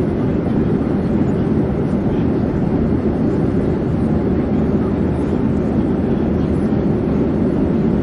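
Airplane in flight: a low, even rushing drone that holds steady without rising or falling.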